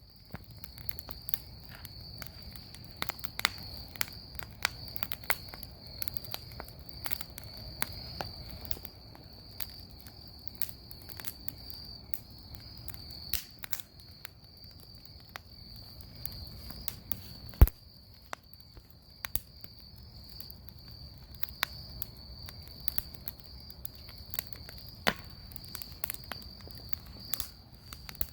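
Bonfire crackling with scattered sharp pops, one much louder pop a little past the middle, over a steady high-pitched insect chorus.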